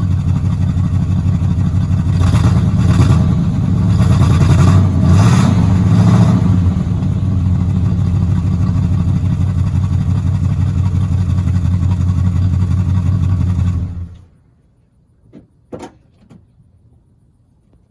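Oldsmobile Cutlass S engine running, louder for a few seconds near the start as if revved, then switched off about 14 seconds in, cutting out suddenly. A few faint clicks follow.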